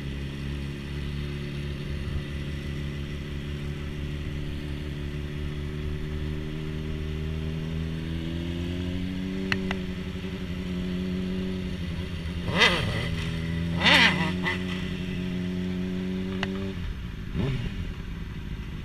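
Honda CBR600RR motorcycle engine running steadily, its pitch climbing about halfway through, with two short loud bursts of noise a little over a second apart and a drop in pitch near the end.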